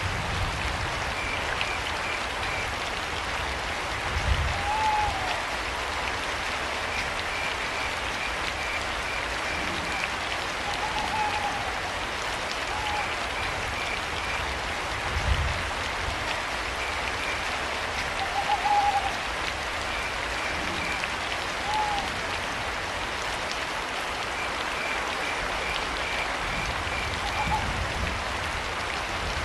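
Steady rain with crickets chirping in short trains of high pulses and an owl giving short hoots every few seconds. A couple of brief low thumps sound in the rain.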